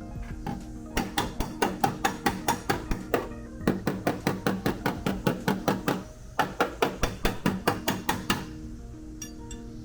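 A body hammer striking steel sheet metal in quick, even blows, about five a second, in three runs with short pauses between, over background music.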